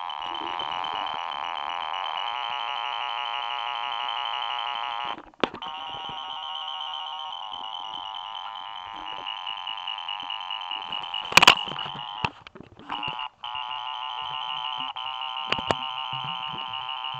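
Harsh, alarm-like electronic synthesizer tones, several held pitches pulsing rapidly. They cut out briefly twice and are broken by a loud sharp click about eleven seconds in.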